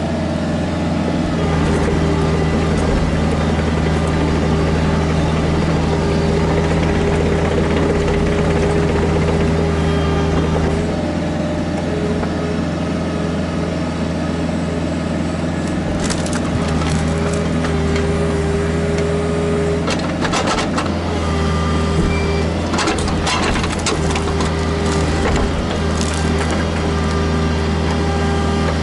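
Kubota KX121-3 mini excavator's diesel engine running steadily under hydraulic work, its pitch shifting a little as the load changes. In the second half come several sharp knocks and cracks, typical of the bucket and thumb handling stumps, logs or stone.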